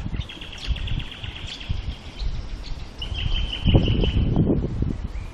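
Birds chirping and calling, with a steady high trill a little past halfway, over irregular low rumbling.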